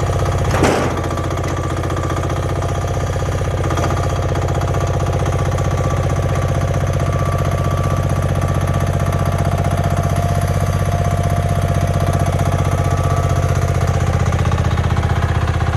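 An engine idling steadily, with one sharp clank less than a second in.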